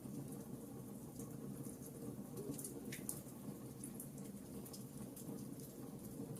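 Wood fire burning in a fireplace, crackling with small irregular pops over a low steady rumble.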